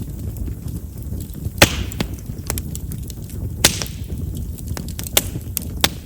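Chestnut-wood bonfire burning with a low rumble of flames, crackling with small ticks and four sharp pops, the loudest about a second and a half in. Chestnut's large wood vessels make it a wood known for popping as it burns.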